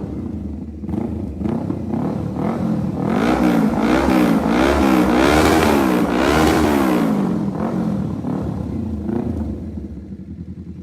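Kawasaki Z650's two-cylinder engine through a full aftermarket exhaust system, revved in a run of quick throttle blips, about one a second for several seconds in the middle, then falling back and quieting near the end.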